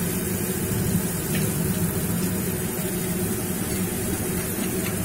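Chopped onion and tomato frying in oil in an aluminium pot, a steady sizzle over a low, even hum.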